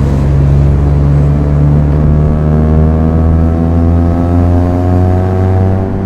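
Proton Inspira 1.8's four-cylinder petrol engine accelerating under steady load in one gear, its note climbing slowly and evenly.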